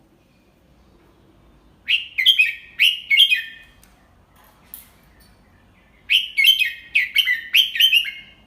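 Red-whiskered bulbul singing two short phrases of quick, clear, falling notes, the second about two and a half seconds after the first. It is a tutor bird's song of the kind used to teach young bulbuls.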